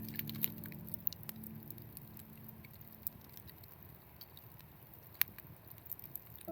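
Background music fading out over the first two seconds, then faint, scattered light ticks and pattering over a low steady hiss.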